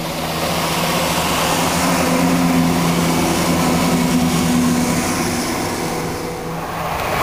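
Class 170 Turbostar diesel multiple unit passing under power, its underfloor diesel engines giving a steady droning note. It grows louder to a peak midway, then eases as the train goes by.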